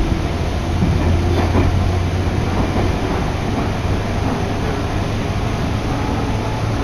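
Running noise inside a moving electric local train: a steady rumble of wheels on rails with a low hum.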